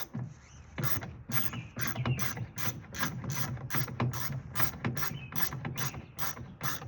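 Steady run of ratchet-like mechanical clicks, about three a second, with a low hum underneath.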